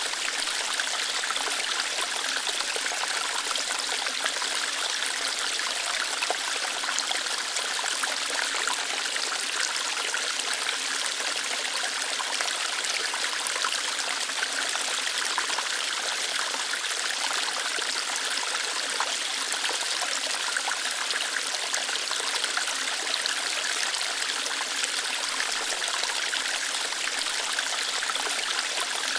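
Water of a small waterfall flowing lightly over rocks, a steady even rush and trickle.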